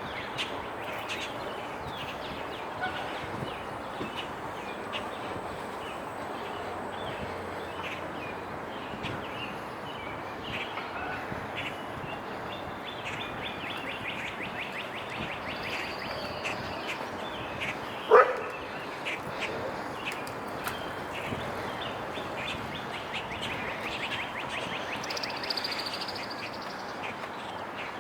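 Steady outdoor street ambience with many small chirps and ticks throughout, and one loud, short, sharp sound about eighteen seconds in.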